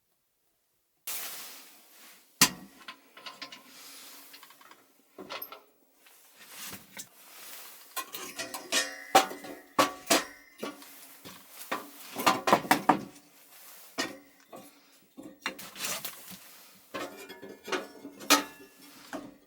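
Irregular clinks, knocks and rattles of dishes, pots and cutlery being handled, starting about a second in and busiest around the middle.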